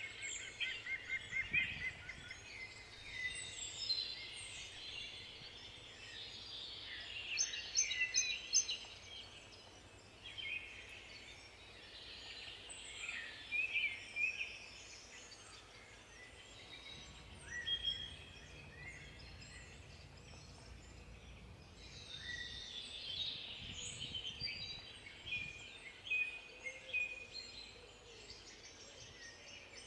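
Songbirds singing and calling, several overlapping voices of short chirps and quick trills coming in clusters.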